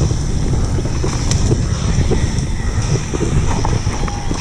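Wind rushing over the camera microphone on a downhill mountain-bike descent, with the bike and tyres rattling over rough ground in scattered small knocks and clicks.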